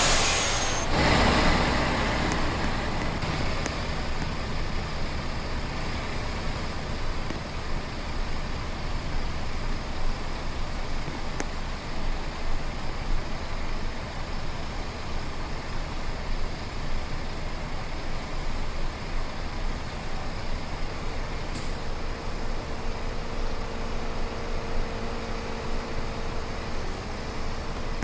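A vehicle driving, giving a steady rumble of road and engine noise, with a louder rush about a second in.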